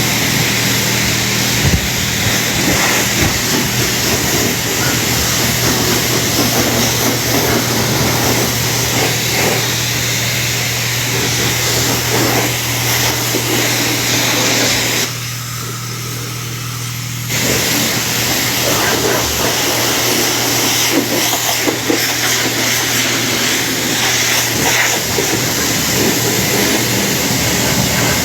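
High-pressure car-wash spray wand rinsing a car: a loud, steady hiss of spraying water over a low steady hum. The spray stops for about two seconds in the middle, then starts again.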